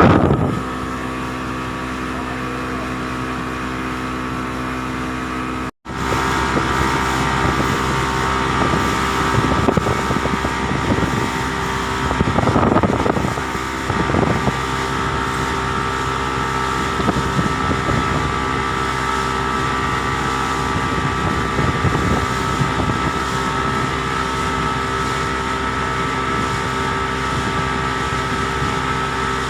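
Boat engine running steadily at a constant speed, with wind on the microphone. It cuts out for an instant about six seconds in, then carries on unchanged.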